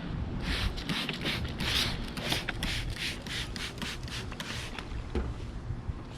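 Quick repeated rubbing strokes on a car's windshield frame (pinch weld) as it is worked over by hand, about five strokes a second, then fainter and sparser after about three and a half seconds.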